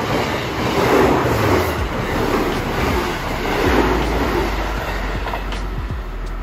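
Electric passenger train passing close by at speed: a steady rush of noise with a rhythmic wheel clatter, easing off a little as the last cars go by.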